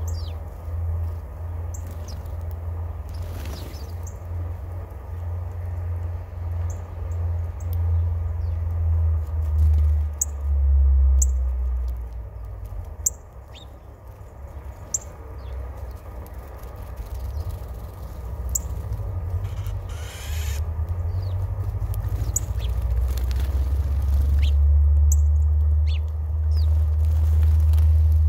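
Small birds chirping: brief, high calls scattered every second or two. Under them runs a loud low rumble that swells and fades.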